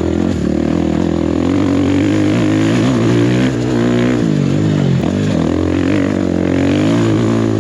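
Enduro dirt bike engine running under way, its revs rising and falling continuously as the throttle is worked, with a sharp drop about five seconds in before it picks up again.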